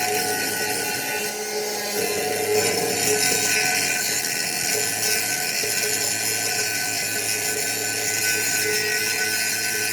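A small motorised hand tool running steadily.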